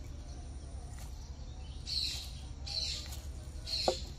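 A bird chirping again and again, a short high call about once a second, starting about two seconds in. A single sharp click comes near the end.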